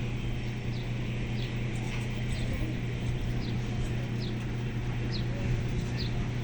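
A steady low mechanical hum, like an idling engine, under a bird's short high chirps that fall in pitch and repeat about once every second.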